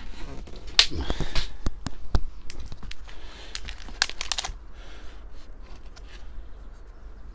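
Plastic plant pots and seedling trays being handled and moved about: scattered sharp clicks and crinkly rustles, busiest in the first few seconds and thinning out after about five seconds.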